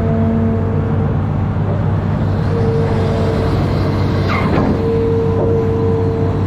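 Amphibious excavator's diesel engine running steadily, with a hydraulic whine that drops out and comes back. A brief falling squeal about four seconds in.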